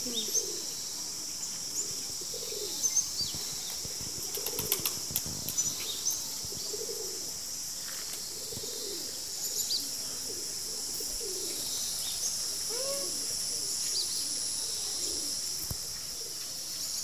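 Outdoor birdsong: short low calls repeated every second or so, with small high chirps over a steady high hiss. A few sharp clicks come a few seconds in.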